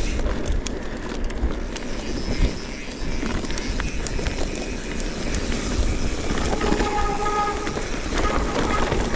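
Steady rumbling and rattling of a ride down a rough forest trail, with a brief high squeal about two-thirds of the way through.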